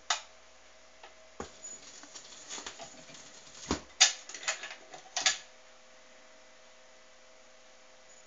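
Automatic record changer of a National SS 8000 stereo cycling as a record ends: a run of mechanical clicks and clunks over about five seconds, the loudest about four seconds in, then only a faint steady hum.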